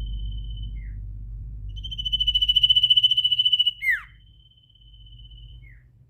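A small songbird giving a rapid, high, fast-pulsed trill (the 'ngetir' trill) on one steady pitch, loudest around the middle and ending in a quick downward slurred note, followed by a fainter trill. A low rumble sits underneath in the first half.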